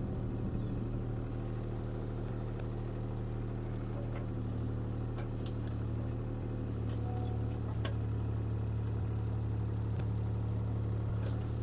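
CAT 303C CR mini excavator's diesel engine running steadily under hydraulic work, with a few faint sharp snaps or clicks scattered through it.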